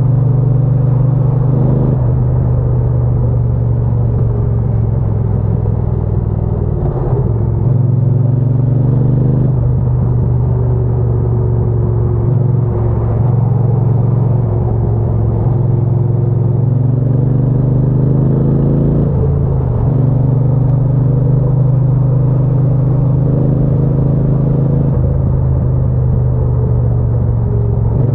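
Triumph Bonneville T120 parallel-twin motorcycle engine running under way, its exhaust note rising and falling in pitch as the rider works the throttle.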